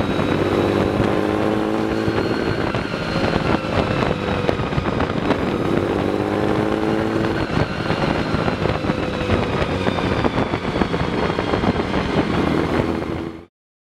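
Engine of an Alfa Romeo Monza 8C replica running under way, heard from its open cockpit, climbing in pitch twice as it pulls. The sound cuts off abruptly near the end.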